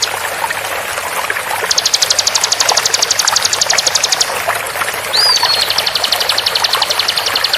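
Bar-winged prinia (ciblek) giving its fast 'tembakan' trill, an even rapid rattle of about a dozen high notes a second, twice, each lasting two to three seconds, with a short up-and-down whistle just before the second trill. Running water trickles steadily underneath.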